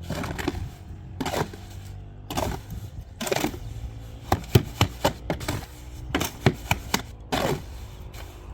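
Irregular sharp knocks and clacks, several in quick succession near the middle, over a low steady hum.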